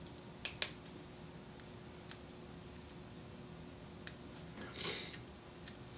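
Faint small clicks and taps from hand-working a volume control freshly filled with spray cleaner, with a short hiss about five seconds in.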